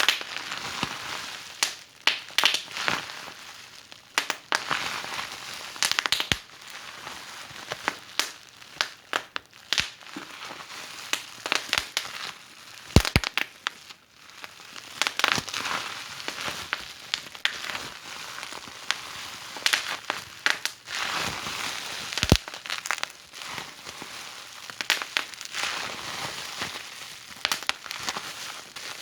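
Wood fire burning in a fireplace, crackling with irregular sharp pops over a steady hiss; the loudest pop comes about thirteen seconds in.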